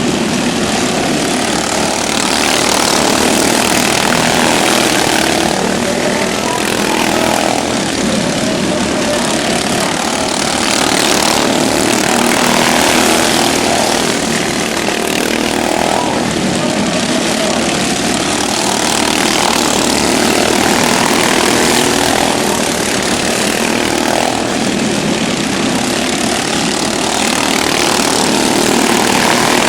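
Several modified racing lawn mowers' small engines running at high revs, their sound swelling and fading every few seconds as the mowers pass by.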